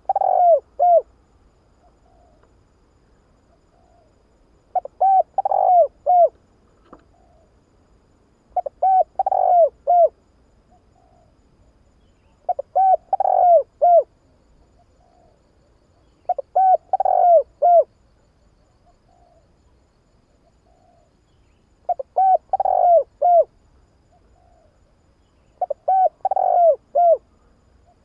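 Spotted dove cooing: a phrase of four or five coos with a longer note in the middle, repeated about every four seconds, seven times.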